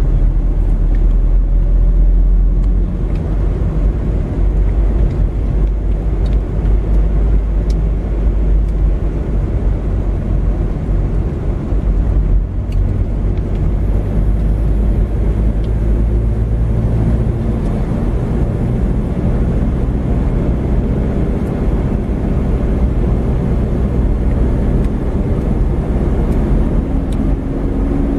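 A car's engine and tyre noise heard from inside the cabin while driving slowly: a steady low rumble, with the engine note drifting gently up and down.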